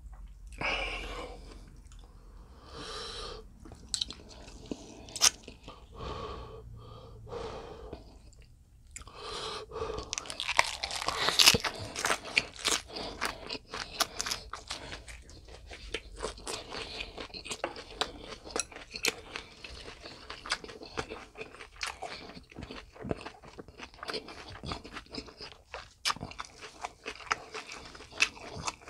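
Close-miked chewing of a napa cabbage wrap of spicy stir-fried pork, with the raw cabbage leaf and stems crunching. The first few seconds are softer. From about ten seconds in, dense crisp crunching sets in and goes on.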